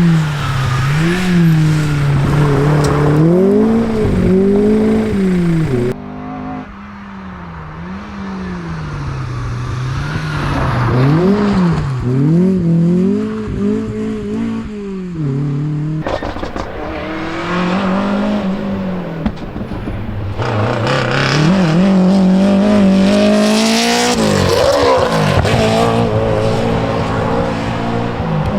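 Historic rally cars driven hard on a stage, engines revving up and dropping back again and again as the drivers change gear and lift. The sound changes abruptly a few times, as from one car or clip to the next.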